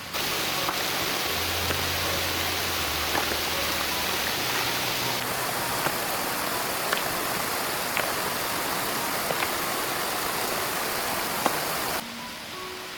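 Rushing water, a loud steady wash with scattered small clicks and splashes, over soft background music. It starts and cuts off abruptly about 12 seconds in.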